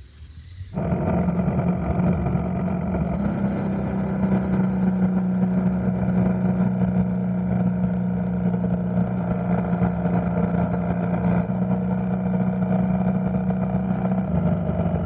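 BMW motorcycle engine running at a steady cruising pace while riding, an even drone that holds one pitch; it cuts in abruptly under a second in.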